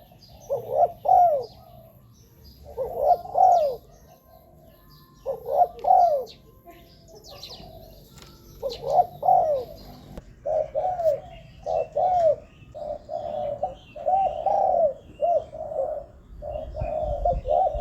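Spotted dove cooing: short phrases of two or three coos every couple of seconds, then a faster, nearly continuous run of coos from about ten seconds in. Small birds chirp faintly at a higher pitch behind.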